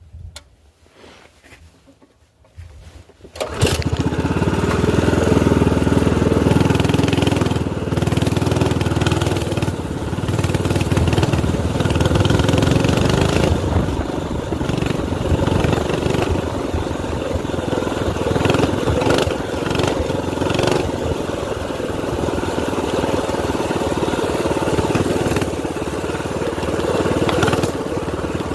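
Straight-piped minibike engine starting about three and a half seconds in, then running steadily with small rises and dips in level. A few faint short sounds come before it.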